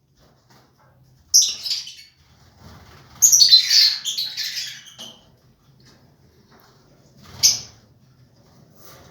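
Lovebirds chirping and squawking shrilly in three bursts, the longest about three seconds in.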